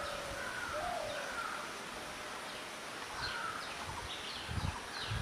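Wild birds calling. Low, slurred whistled notes come in the first second, and short, falling higher chirps follow from about three seconds in, over steady outdoor background noise with a few low bumps near the end.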